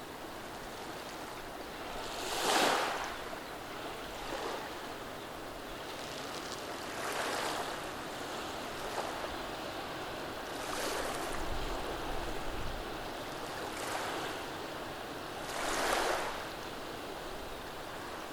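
Gentle waves washing over a beach of rounded stones, with a steady hiss of water and a soft swell of wash every few seconds, the strongest a few seconds in and again near the end.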